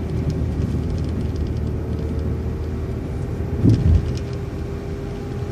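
City transit bus running, a steady low engine rumble with a steady whine over it, and a single thump a little past the middle.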